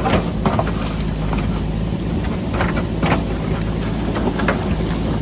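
JCB backhoe loader's diesel engine running steadily under load, with several sharp knocks and clatter of rock as the machine cuts into the rocky hillside. Wind buffets the microphone.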